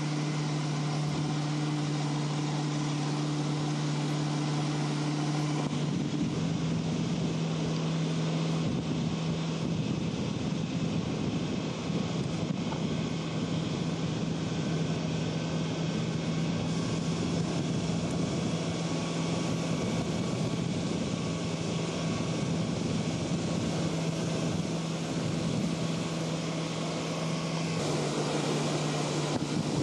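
Motorboat engine running at a steady drone under a rush of wind and water noise. The engine's pitch rises slightly about six seconds in and eases back near the end.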